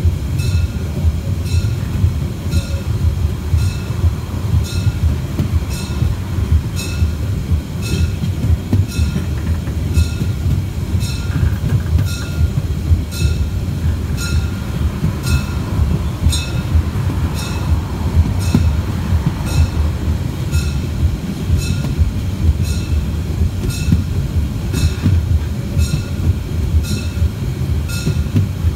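Narrow-gauge steam train heard from on board a carriage while under way: a steady rumble of wheels on the rails, with short high ticks or squeaks repeating at an even pace.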